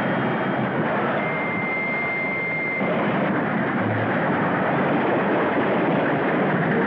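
Steady rushing and rattling of a train running at speed, with a high steady tone lasting about a second and a half, starting about a second in.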